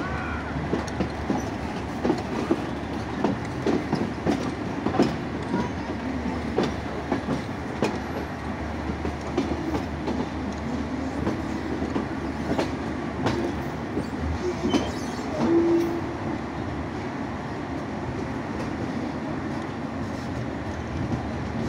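Passenger train coach wheels running over the rails, heard from an open coach door: a steady rumble with clicking and clacking over rail joints, most often in the first third. A short steady tone sounds about two-thirds of the way through.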